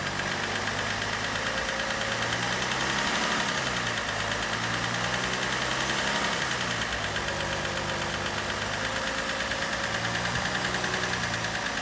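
BMW M57N 3.0-litre straight-six diesel running steadily at raised revs of about 1200 rpm with a rhythmic knock, which the owner puts down to a piston.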